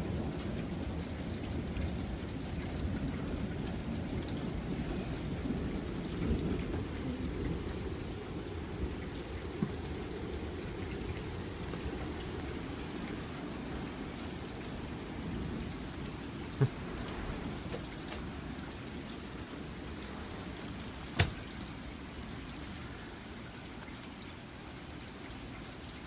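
Steady rain in a thunderstorm, with a low thunder rumble that slowly dies away over the first several seconds. Two sharp ticks stand out later on.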